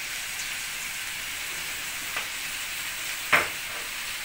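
Stir-fried vegetables and seafood sizzling steadily in an aluminium wok, with a faint click about two seconds in and a sharper knock a little after three seconds.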